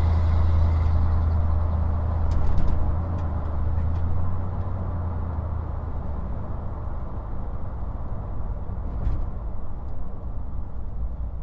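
1995 Ford Bronco's V8 engine and road noise heard from inside the cab: a steady low drone that slowly dies down. A few light clicks or rattles come a couple of seconds in and again later.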